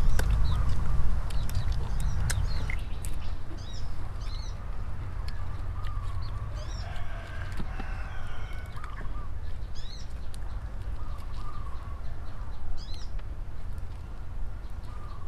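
Small birds chirping, a short call about every three seconds, over a steady low rumble of wind on the microphone.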